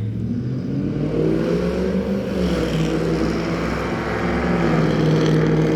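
A loud motor vehicle engine accelerating: its pitch climbs, drops about two seconds in as it changes gear, then climbs again and holds steady.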